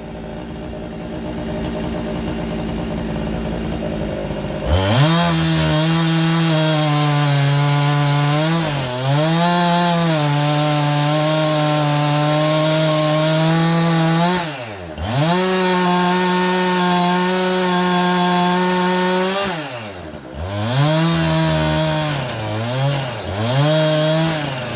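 Chainsaw engine running at high revs, the throttle let off and opened again about four times so the pitch drops sharply and climbs back. For the first few seconds it runs at a lower, rougher note before revving up.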